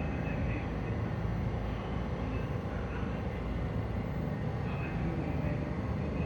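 Subway train running: a steady rumble with no distinct events.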